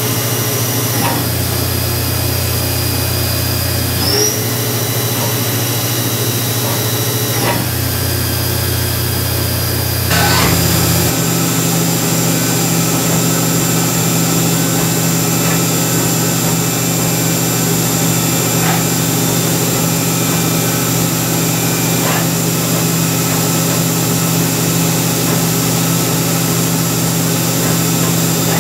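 Haas VF-2 CNC vertical mill cutting a part, a steady machine whine with several pitched tones. The pitch steps down and up a few times in the first ten seconds, then settles into one steady, higher tone for the rest.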